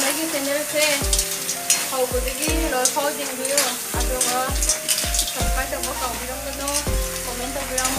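Snails sizzling as they are stir-fried in a black wok, with a spatula scraping and stirring them. Background music with a steady beat plays throughout.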